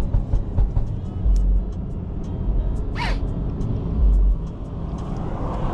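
Low rumble of a BMW 540i moving in slow traffic in the rain, heard from the car, with many scattered short ticks of rain. A brief high squeak falls in pitch about three seconds in.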